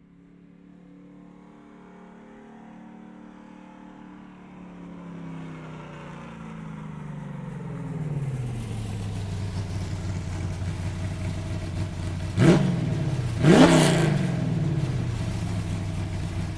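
Car engine whose pitch falls as it grows louder over about eight seconds, then settles into a steady idle. Two quick revs, about a second apart, are the loudest moments before it cuts off.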